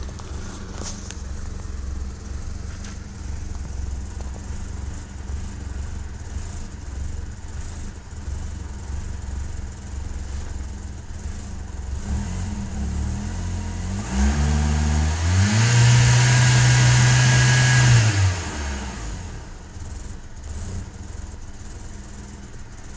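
Toyota Camry engine idling, revved up about halfway through and held high for around four seconds, then dropping back to idle; the owner takes the idle for a misfire.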